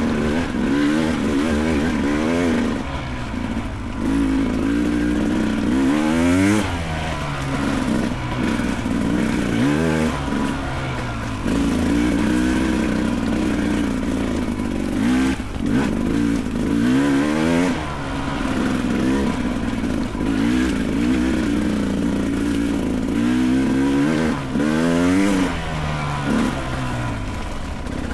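Beta 300 Race single-cylinder two-stroke dirt bike engine revving up and down again and again as the throttle is worked on a trail climb.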